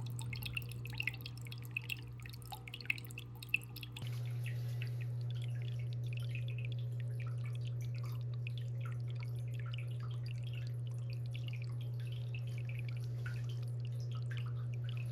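Water trickling and dripping in a freshly set-up planted aquarium, small irregular drips over a steady low hum; the hum steps up in level about four seconds in.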